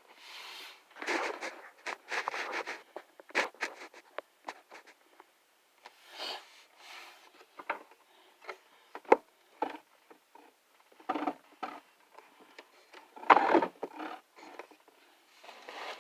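Handling noise from a boxed action figure and its packaging being picked up and moved about: irregular rustles and scrapes with sharp clicks and knocks, a sharp click about nine seconds in and a louder knock about thirteen seconds in.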